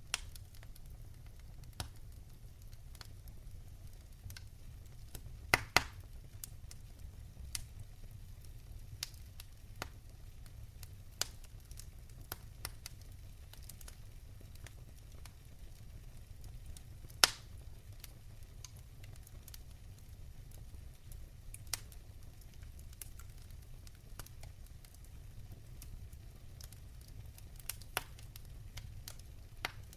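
Fireplace fire crackling: scattered sharp pops and snaps over a low steady rumble, with a few louder pops, two in quick succession about six seconds in and another past the middle.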